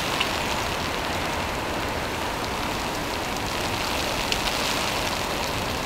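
Steady rain falling, an even hiss with a few louder single drops.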